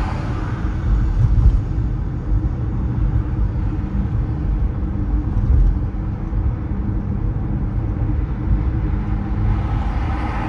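Steady low road rumble of a car driving through city streets: tyre and engine noise. A hiss swells briefly near the start and again near the end.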